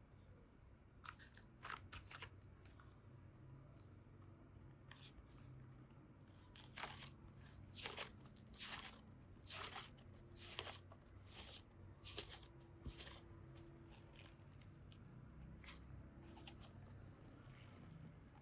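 Hands squishing and pressing a mix of modelling clay and slime, giving faint crackling, crunchy clicks. A few scattered clicks come first, then a denser run of short crackles in the middle.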